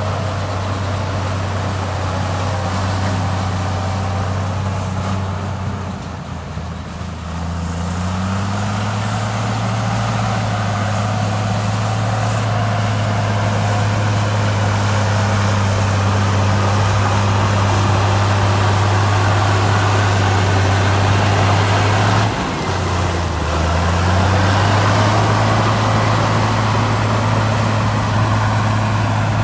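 Heavy diesel engine of earthmoving machinery running under load with a steady low note. Its pitch sags and climbs back twice, about six seconds in and again after about twenty-two seconds.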